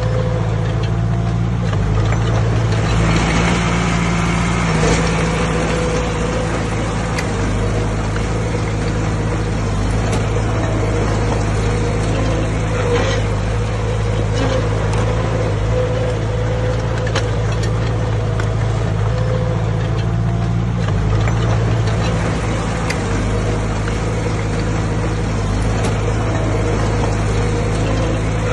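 Diesel engine of heavy earthmoving machinery running steadily, with a rougher, noisier stretch about three to five seconds in.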